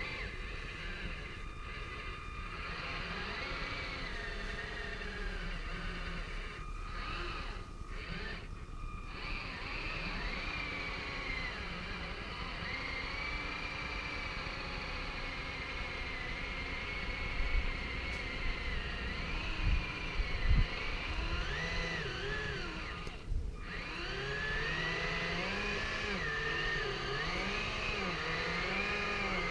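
The twin electric drive motors of a Hobby Engine Southampton RC tug whining as it is driven in a small pool. The pitch rises and falls with the throttle as the two props are run independently to turn the boat. There are a few brief low thumps about two-thirds of the way through.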